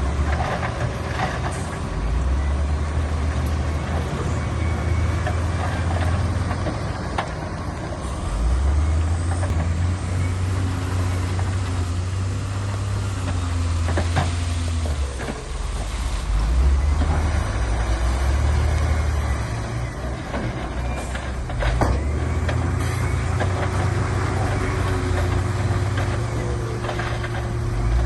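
Heavy diesel earthmoving machinery working: deep engine note rising and falling as the machines rev under load, with occasional sharp clanks of metal and stone.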